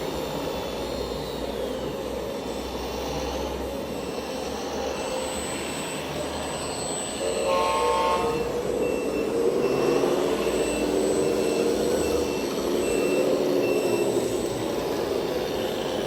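Electronic engine sound from a radio-controlled model vehicle's sound module, running steadily and then rising in pitch about nine seconds in. A brief horn-like tone sounds about halfway through, followed by a reversing beeper beeping about twice a second for several seconds.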